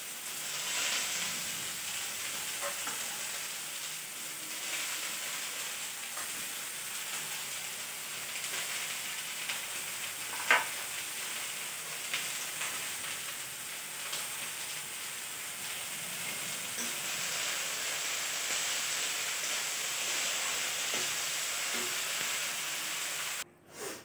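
Chopped beans and carrots frying in oil in a metal wok, sizzling steadily as they are stirred with a spatula. A single sharp knock about ten seconds in, and the sizzle cuts off abruptly just before the end.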